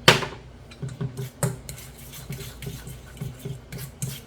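A sharp clatter of kitchenware at the start, then a utensil stirring deviled-egg yolk filling in a bowl: repeated scraping strokes, about three a second.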